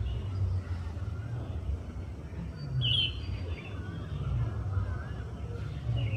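A bulbul giving short chirping calls, one louder and sharper about three seconds in, over a low steady rumble.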